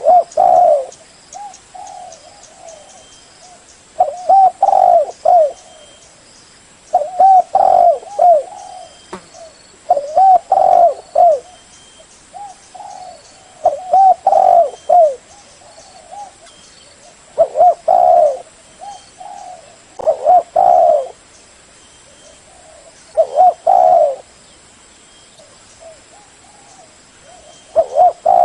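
Spotted dove cooing: loud, repeated coo phrases a few seconds apart, with fainter coos in between.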